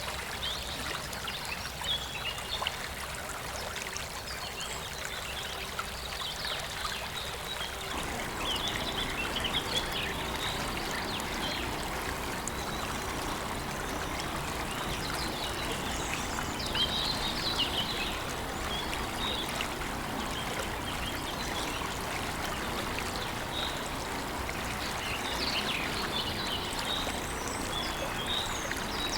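A waterfall's water rushes steadily, with birds chirping now and then over it in short high calls.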